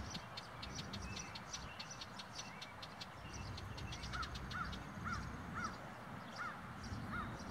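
Birds calling outdoors: quick high chips and ticks throughout. About halfway through, one bird starts a run of about six short rising-and-falling notes, roughly two a second.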